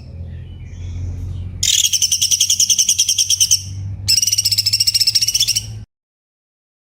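Cucak cungkok bird singing two long, rapid, high-pitched trilled phrases of about two seconds each, with a short gap between them. A low steady hum runs underneath, and the sound cuts off abruptly near the end.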